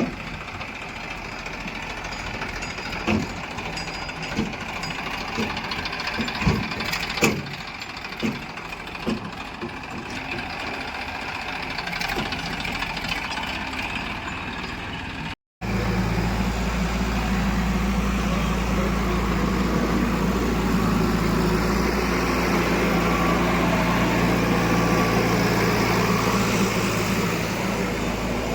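Heavy diesel machinery running, with scattered sharp knocks and clanks over the engine in the first half. After a sudden cut about halfway through, a louder, steady engine drone with a strong low hum.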